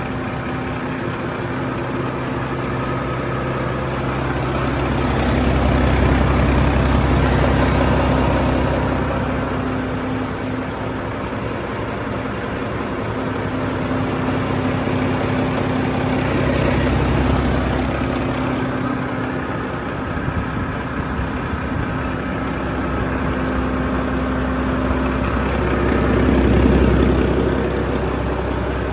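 2007 Mack MP7-325M 10.8-litre six-cylinder diesel engine running on a test run, idling steadily and growing louder three times as it is revved up and let back down.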